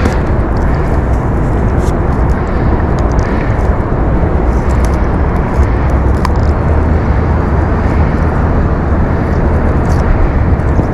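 Steady wind buffeting the microphone, a dense low rumble with a few faint ticks of handling mixed in.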